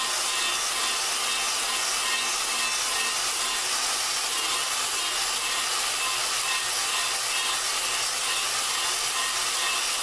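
A valve being lapped into its seat on a Dodge 4.7 V8 cylinder head, spun by a drill: a steady gritty rasping of the valve face turning against the seat, continuous and even.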